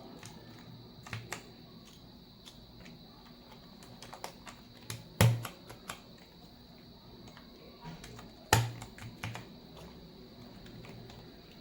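Mechanical keyboard clicking under hand: scattered, irregular key clicks and taps as keycaps are fitted and keys pressed, with two louder clacks about five and eight and a half seconds in.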